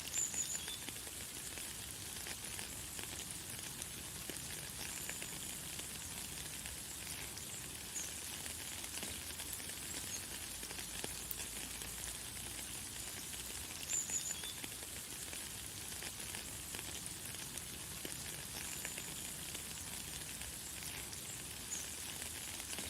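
Light, fine rain falling as a steady soft hiss, with a bird giving short, high chirps every few seconds, loudest about half a second in and again about fourteen seconds in.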